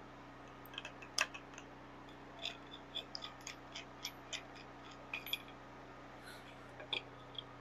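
A quiet series of irregular light clicks and taps, a dozen or more spread over several seconds, over a faint steady hum; no cutting tool is running.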